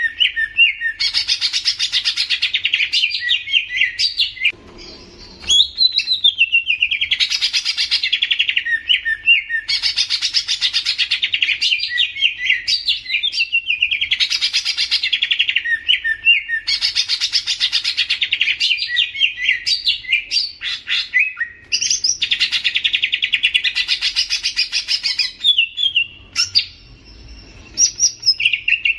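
A songbird singing loud, rapid warbling phrases of two to three seconds each, one after another with short gaps. There is a brief pause about four seconds in and another near the end.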